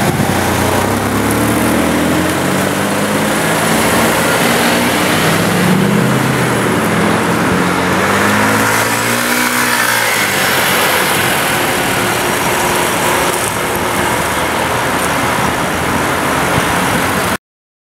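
Mercedes-Benz C63 AMG Coupe's V8 engine and exhaust under hard acceleration, the pitch rising and dropping back several times as it revs. The sound cuts off abruptly near the end.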